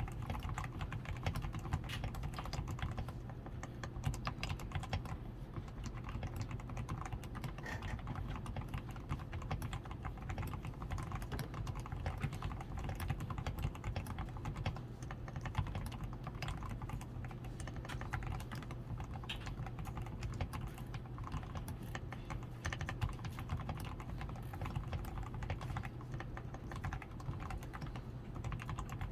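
DAREU A87 Pro mechanical keyboard being typed on steadily, a dense, unbroken run of keystrokes. The keyboard is fully lubed with Krytox 105, with lubed stabilizers, a PCB tape mod, extra switch foam and XDA keycaps.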